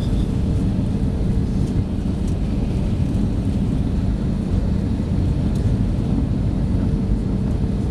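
Steady low rumble of an Airbus A318 heard inside the passenger cabin: jet engines and airflow, with a faint steady hum running through it.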